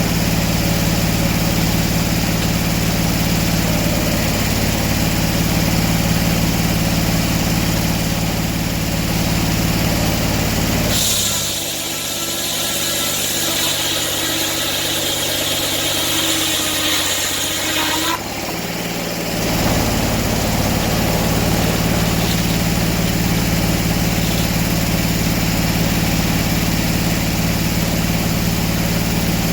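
Sawmill engine running steadily at idle. For about seven seconds in the middle, its low running drops away and a higher, hissing sound takes its place, then the engine is heard again.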